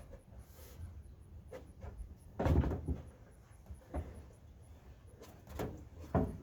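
Several dull knocks and bumps from handling the pickup bed as it is lowered onto the truck, the loudest about two and a half seconds in.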